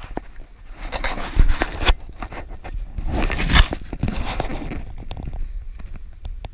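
Irregular scraping and several sharp thumps of footsteps and gear being handled, over a steady low rumble of wind on the microphone.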